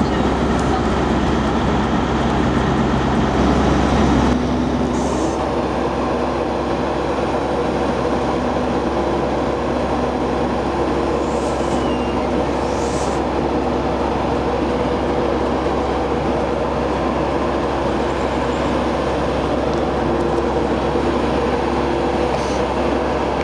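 Steady low drone of diesel trains standing under the station roof. About four seconds in, it cuts abruptly to the steady hum of a standing Class 91 electric locomotive, with a few held tones and a few brief faint high squeaks.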